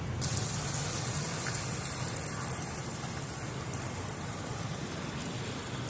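Hailstorm: a dense, even hiss of falling hail over a low rumble. The hiss grows suddenly brighter just after the start.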